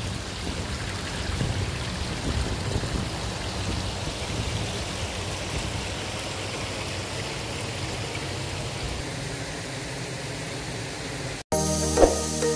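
Steady rush of flowing water at a canal lock. About eleven and a half seconds in it cuts off suddenly and music with bell-like notes starts.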